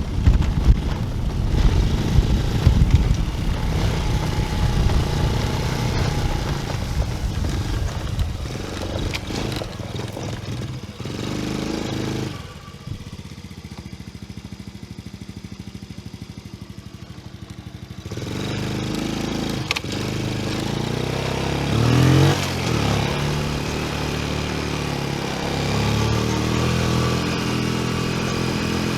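Honda TRX90 quad's 90cc single-cylinder four-stroke engine running and being revved. It drops to a quieter, steady idle for about six seconds midway, then picks up again with a rise and fall in pitch a few seconds later.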